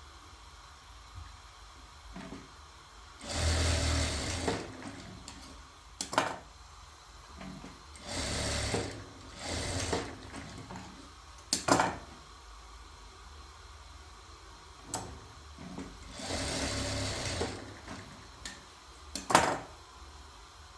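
Sewing machine running in four short bursts of about a second each, stopping and starting as fabric is stitched, with a few sharp knocks or clacks between the runs, the loudest near the end.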